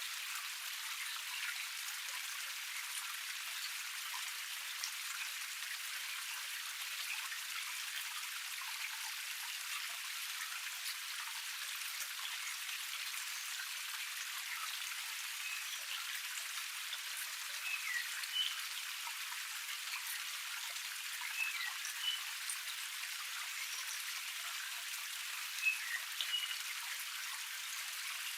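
Small forest cascade splashing and trickling steadily, a fine patter like rain. A few short, high chirps, likely birds, come in the second half.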